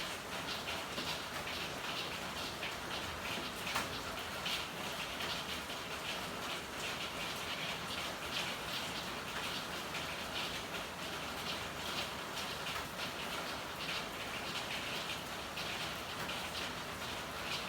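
Steady rain falling in an alley, a dense patter of drops hitting hard surfaces, with one sharper tick about four seconds in.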